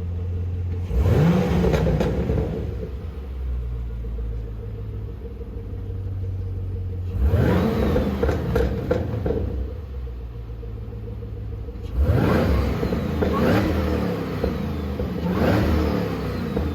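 Chevrolet Camaro ZL1's supercharged 6.2-litre V8 idling with a deep, steady rumble and being revved in short blips several times, each rev rising sharply in pitch and falling back to idle.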